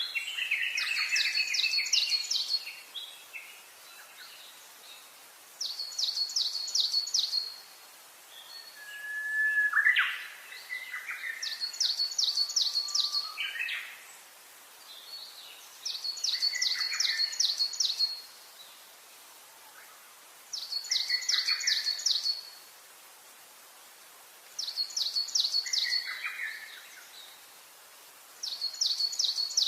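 A bird singing: a short, fast trill of high notes, repeated about every four seconds, with lower notes under some of the phrases.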